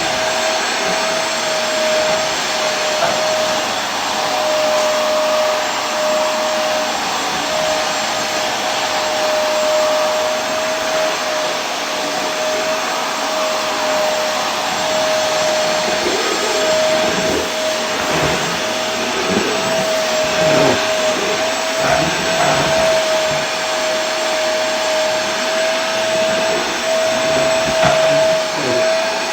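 Vacuum cleaner running continuously: a steady whooshing motor noise with a constant whining tone, slightly uneven in the second half.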